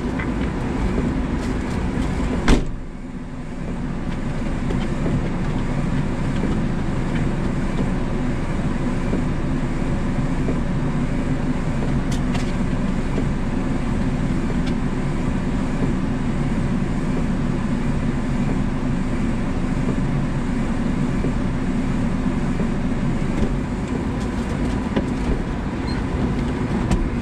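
A 1994 Daihatsu Hi-Jet mini truck's small three-cylinder engine running steadily, heard from inside the cab. There is a single sharp knock about two and a half seconds in.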